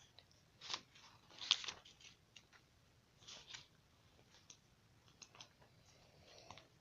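Paper pages of a paperback book being turned: a few short, faint rustles, the loudest about a second and a half in, with small clicks of handling near the end.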